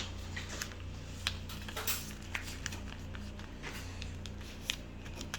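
A sheet of paper being handled and creased while folding a paper airplane: scattered short rustles and taps over a steady low hum.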